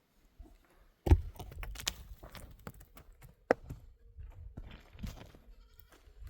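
Irregular knocks, clicks and scuffs, the loudest a sharp knock about a second in and another about three and a half seconds in.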